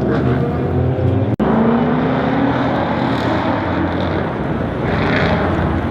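Loud car engine running, its pitch sliding down and then climbing as it revs or passes, with a brief sharp cut-out about a second and a half in.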